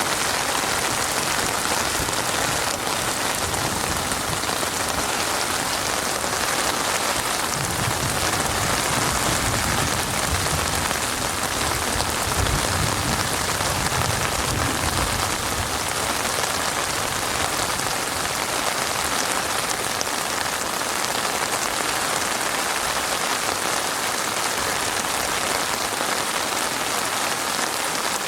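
Heavy rain falling steadily: a dense, even hiss of drops striking a surface, with a low rumble underneath for several seconds in the middle.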